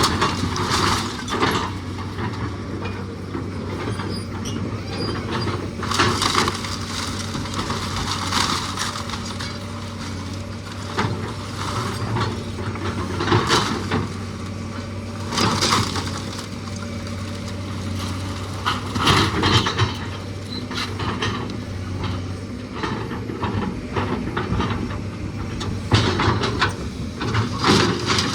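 A heavy machine's engine running steadily under load, with repeated cracking and crunching of old wood and debris being broken up in a house demolition.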